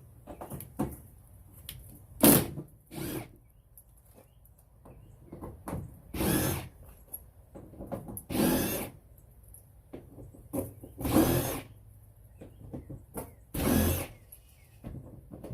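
Cordless drill/driver running in about six short bursts, with small clicks and handling noise between them, as it backs out the fasteners holding a truck panel.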